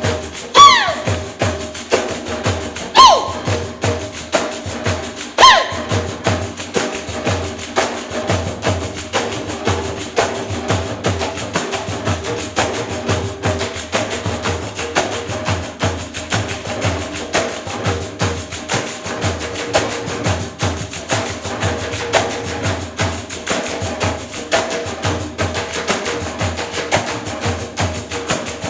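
Live percussion music led by pandeiros, Brazilian frame drums with jingles, played together in a fast, steady rhythm over sustained pitched notes. In the first six seconds three sharp falling tones cut through.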